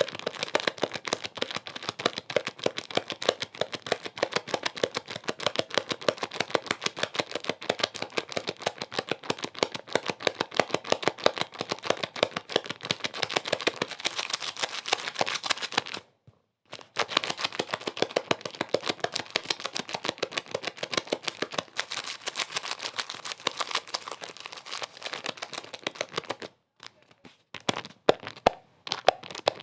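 Dense, rapid crackling made of many sharp clicks a second. It cuts out abruptly for under a second around the middle, resumes, and thins to a few scattered clicks near the end.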